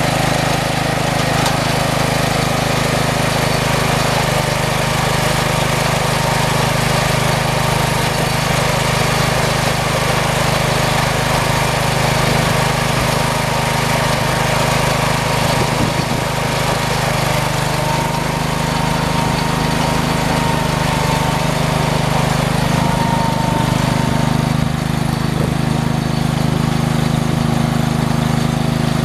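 Engine of a small tractor running steadily, with a thin whine above it that rises slightly in pitch in the second half.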